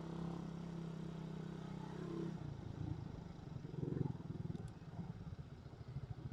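Suzuki Raider 150 motorcycle engine running at steady revs, then about two and a half seconds in the revs drop and it settles into a low, uneven putter.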